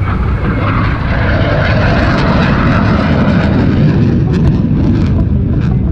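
Airplane engine noise from an aircraft flying past, growing somewhat louder near the middle and then easing off.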